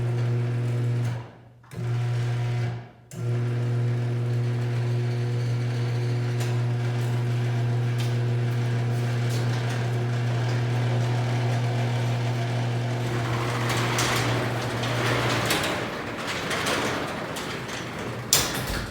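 A steady mechanical hum with a stack of even overtones, which drops out briefly twice in the first few seconds, gives way about thirteen seconds in to a noisier rattling sound. A sharp click comes near the end.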